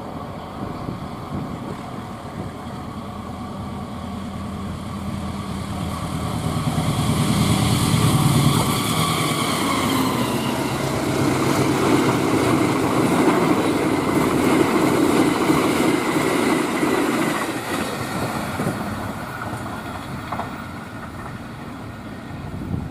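A diesel-hauled passenger train passing at speed: the locomotive's engine grows louder and its pitch drops as it goes by, about nine seconds in, then the coaches' wheels rumble past on the rails for several seconds before fading.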